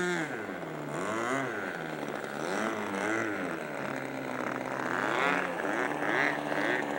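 Radio-controlled model airplane engine running, its pitch rising and falling several times as the throttle or the plane's distance changes, then holding steadier in the second half.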